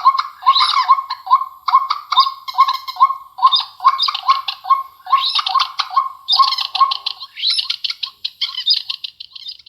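Recorded bird calls played back through a small homemade amplifier and speaker under test: rapid, repeated squawking chirps that thin out and fade near the end.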